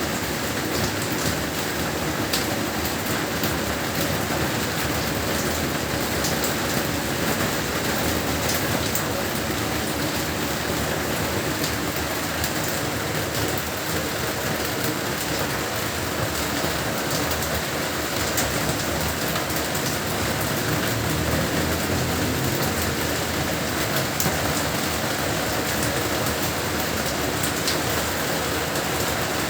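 Heavy rain falling steadily: a dense, even hiss with scattered sharp ticks of drops striking surfaces.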